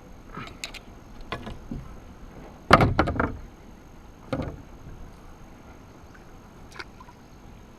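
A few short knocks and rattles, the loudest a heavy thump about three seconds in, with another about a second and a half later.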